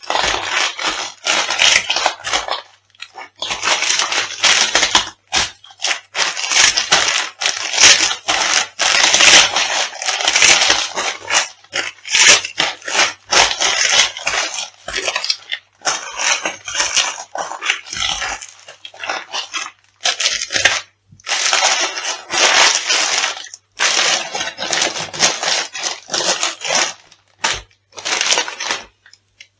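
Food being crushed underfoot: a long run of loud crackling, crunching bursts with short pauses between them.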